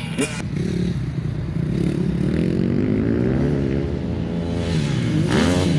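Dirt bike engines running on a practice track, revving up and down as the bikes ride. The revs climb and swing quickly near the end as a bike comes in loud and close.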